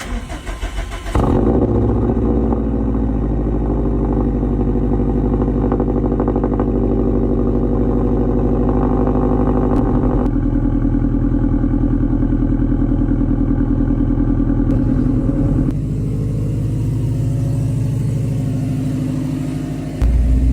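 Turbocharged Subaru flat-four running through an AWE cat-back exhaust, held at steady revs with a deep, even drone. The sound changes abruptly about a second in, and again around 10, 16 and 20 seconds in.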